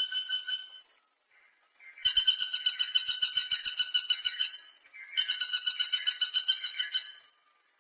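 Woodpecker calling: rapid runs of about eight notes a second, in phrases of two to three seconds. One phrase ends about a second in, and two more follow after short pauses.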